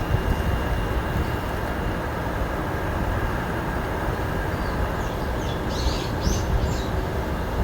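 A steady low rumble of outdoor background noise. About two-thirds of the way in, a bird gives a quick run of short, high chirps.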